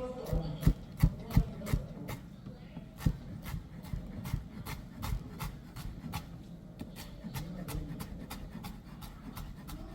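Kitchen food preparation for a fresh tomato, onion and serrano salsa: a few heavy thumps in the first couple of seconds, then a long run of sharp knocks, about three a second, with rubbing and scraping between them.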